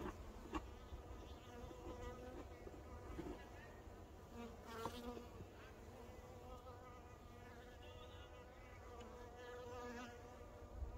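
Honeybees buzzing around the hives: a faint hum of many bees, with single bees flying close by now and then, and a few light clicks.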